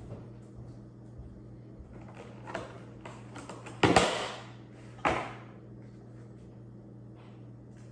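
Three short household knocks or clunks, like doors or drawers, the loudest about four seconds in, over a steady low hum.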